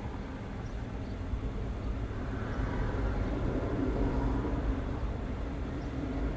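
Car driving with the windows open: steady road, tyre and engine noise heard from inside, growing a little louder about two seconds in.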